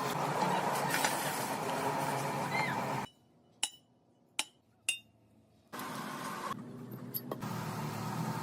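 Steady workshop machinery noise, cut off about three seconds in by a quiet stretch with three sharp metallic clinks about half a second apart, after which the machine noise starts again.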